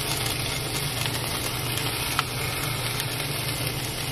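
Salmon fillets sizzling in oil on a flat grill, over a steady low hum, with a faint click about two seconds in.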